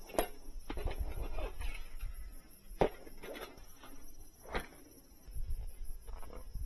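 Scattered clicks, knocks and rustles of camp gear being handled during setup, three sharper knocks standing out. Under them runs the faint, high, evenly pulsing chirring of insects.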